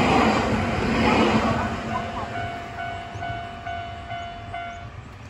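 Nankai electric train running over the rails as its last car clears a level crossing, its noise fading as it moves away. The crossing's warning bell rings an even ding about twice a second and stops shortly before the end.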